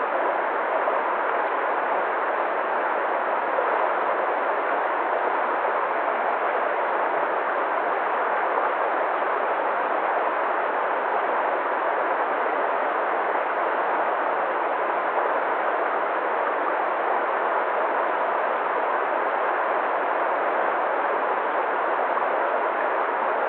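Waterfall: water falling and rushing in a steady, unbroken roar with no change in level.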